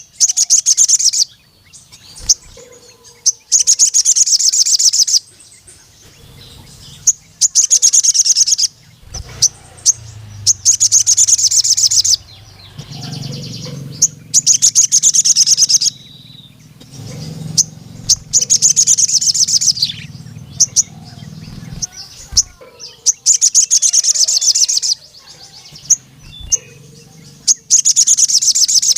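Male ruby-cheeked sunbird (sogon) singing: about ten bursts of rapid, high, chattering trills of about a second each, repeated every two to three seconds.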